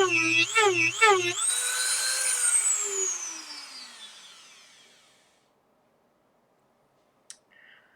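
Dremel rotary tool grinding into the epoxy casing of a DS12887A clock chip, its whine dipping in pitch each time the bit bites into the material. About a second and a half in it is switched off and winds down over a few seconds. A click near the end.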